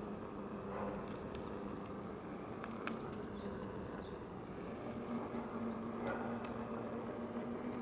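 Electric unicycle riding on wet pavement: a steady rush of tyre and wind noise with a low motor hum that fades and returns, and a few faint clicks.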